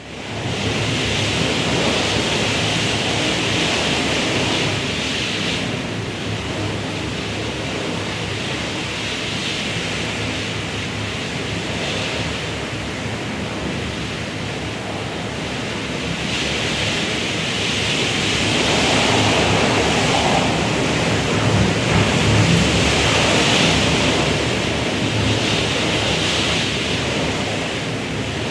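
Strong wind blowing and howling in gusts, a hiss that swells and falls back every few seconds.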